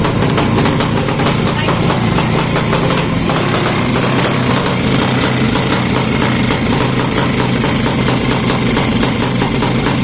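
A 180cc underbone motorcycle's single-cylinder four-stroke engine idling steadily, with an even, rapid pulsing beat from its exhaust.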